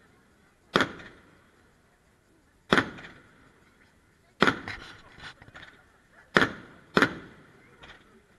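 Aerial fireworks going off: single sharp bangs every second or two, with a quick run of smaller cracks around the middle, each bang trailing off in a short echo.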